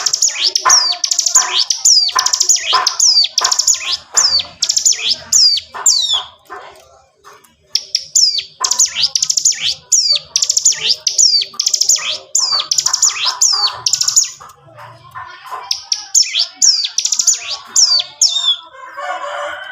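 Ciblek gunung (a prinia) singing in long, fast phrases of high, downward-sweeping notes, about two a second, broken by a couple of short pauses. This is the continuous 'ngebren' song used to train other cage birds.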